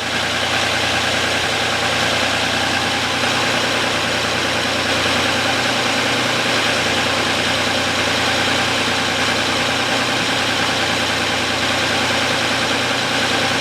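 Audi Q7's 3.6-litre VR6 petrol engine idling steadily from cold, warming up. The whistle it develops when hot is not yet there.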